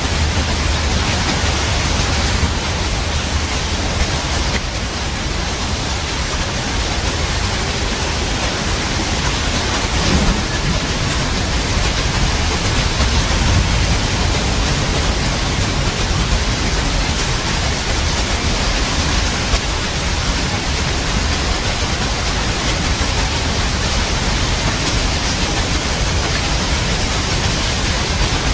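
Steady heavy rain with a deep low rumble of thunder underneath.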